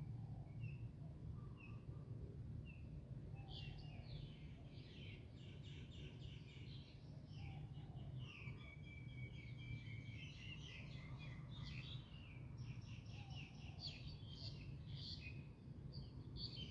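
Birds calling in the trees: a few scattered short chirps at first, then from about three and a half seconds in a dense, rapid chattering of trills and chirps. A faint steady low hum runs underneath.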